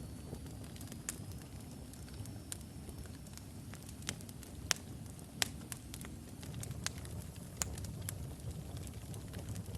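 Wood logs burning in a fireplace: a steady low rumble of flame with sharp, irregular crackles and pops, a few louder pops about halfway through.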